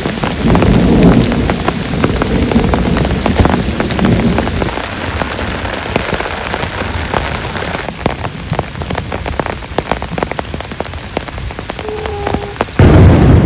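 Heavy rain falling, with many separate drops striking a surface close by. Near the end a loud low rumble of thunder comes in suddenly.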